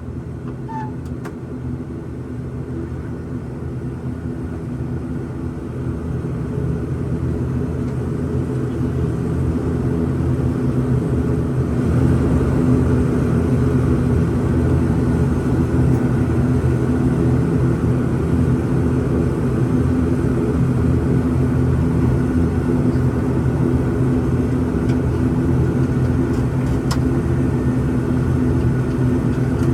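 ATR 72-600 turboprop engines and propellers droning, heard inside the cabin: a steady low hum with a few fixed tones. It grows louder over the first dozen seconds as power comes up, then holds steady.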